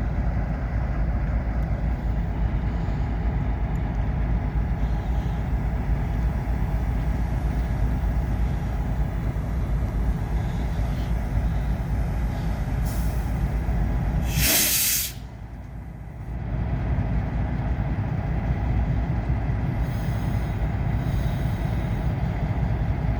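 A train rolling past, its cars giving a steady rumble. About two-thirds of the way through comes one short, sharp hiss, and the rumble dips for a second or two before returning.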